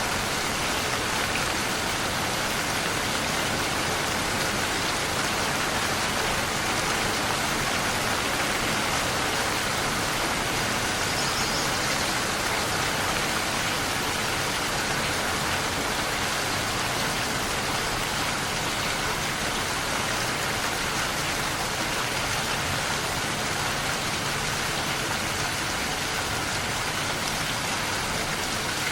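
Steady rain falling: an even, unbroken hiss of many drops with no thunder.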